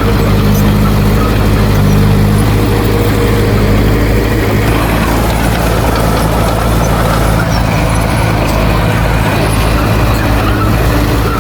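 Heavy earthmoving machine's diesel engine running steadily, a loud, constant low engine drone.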